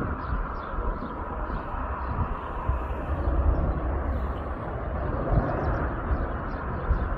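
Tractor engine running steadily as it pulls a seed drill across the field.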